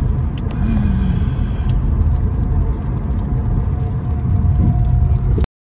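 Road and engine noise inside a moving car on a rainy road, a loud steady low rumble. It cuts off abruptly about five and a half seconds in.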